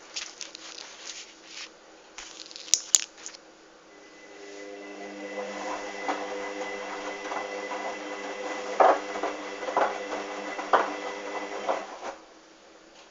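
Hoover washing machine's drum motor starting about four seconds in, running with a steady whine and scattered knocks from the tumbling towels, and cutting off about twelve seconds in: one turn of the wash tumble. Before it come a few clicks, two of them sharp.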